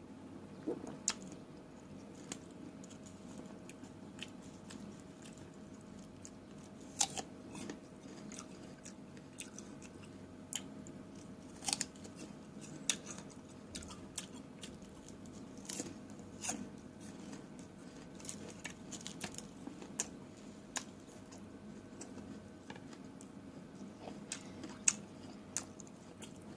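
Close-miked eating of fresh fruit: wet chewing with irregular crisp bites and clicks, a few sharper crunches standing out.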